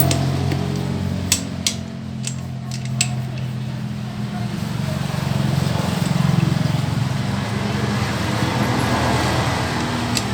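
Motorcycle engine idling steadily, with a handful of sharp clicks in the first three seconds and another near the end.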